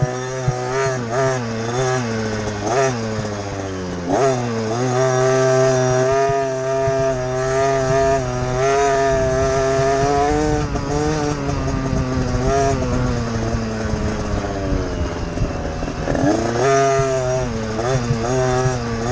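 Motocross bike engine heard from on board, revving hard under race load: short rises and falls at first, then a sharp climb about four seconds in to a long high-revving run that slowly sags, with a dip and another quick climb near the end.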